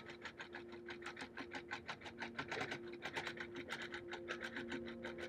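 Sewing machine stitching a quilt along a seam in the ditch: rapid, even needle ticking over a steady motor hum whose lower tone strengthens about two seconds in.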